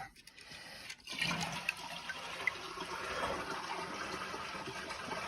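Toilet flushed to drain the tank with the water supply shut off: a click about a second in, then steady rushing water as the tank empties into the bowl.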